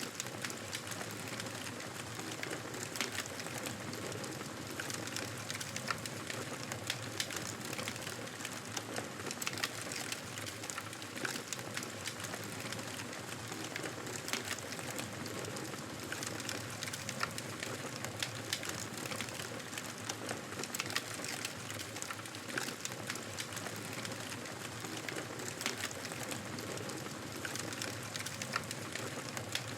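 Wood fire burning in a fireplace: a steady hiss of flames with frequent irregular crackles and pops.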